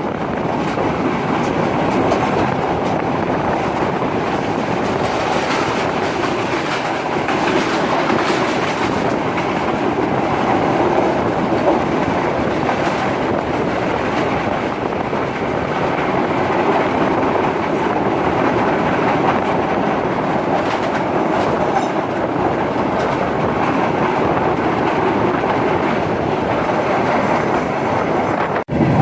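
Express passenger train running along the track: steady wheel-on-rail and carriage noise, which cuts out for an instant near the end.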